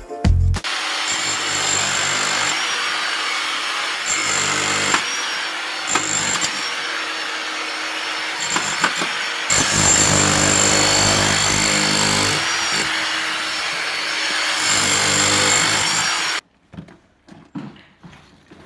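A power tool working on the masonry of a brick chimney being demolished, running hard in several bursts of one to three seconds with a steady drone between them. It cuts off abruptly near the end.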